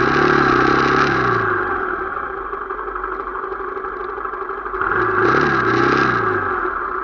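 Motorcycle engine running while riding, its pitch rising and dropping back twice as the throttle is opened and eased off: once at the start and again about five seconds in.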